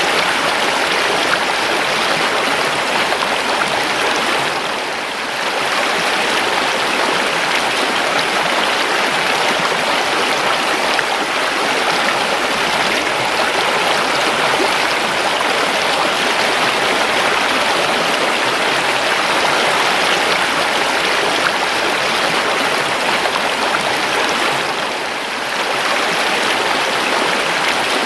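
A river flowing steadily, an even rush of running water, briefly dipping slightly in loudness about five seconds in and again near the end.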